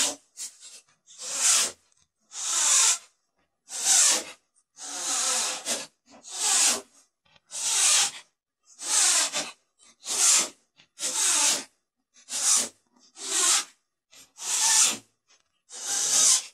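Cordless drill driving screws through white drawer-slide tracks into a plywood cabinet bottom: a short, noisy burst for each screw, about one a second, with pauses between.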